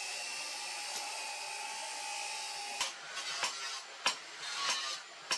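A small electric power tool running steadily at speed, cutting off suddenly about halfway through, followed by several sharp knocks about half a second apart.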